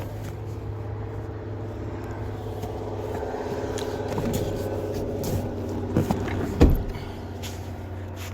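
Steady hum of an idling vehicle engine, a little louder in the middle, with a few clicks and one sharp knock about six and a half seconds in.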